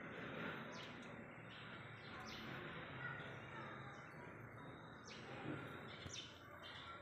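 Birds chirping now and then, short high chirps scattered over a faint steady background hiss.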